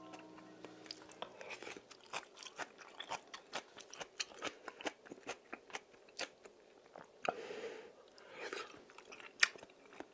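Close-miked chewing and biting of simmered radish from a fish stew: a quick run of small wet mouth clicks and soft crunches. A ringing tone fades out in the first second or so, and a sharper click stands out near the end.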